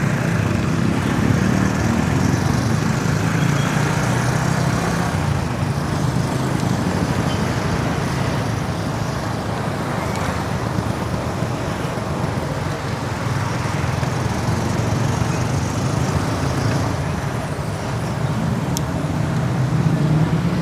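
Steady road traffic noise: motor vehicles running close by, a continuous low engine drone mixed with road noise that keeps an even level.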